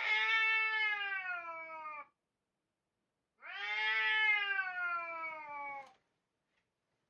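Domestic cat meowing twice: two long, drawn-out meows of about two seconds each, falling slightly in pitch, with a short pause between them.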